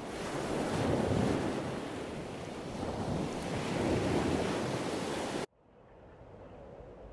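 Rushing water of a river running over rocks and rapids, rising and falling in strength, that cuts off abruptly about five and a half seconds in. A much fainter steady hiss follows.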